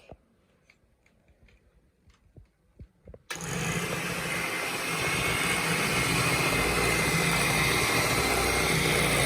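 An electric hand mixer switched on about three seconds in and running steadily, beating crepe batter in a bowl, with a steady motor hum and whine. A few soft clicks come before it starts.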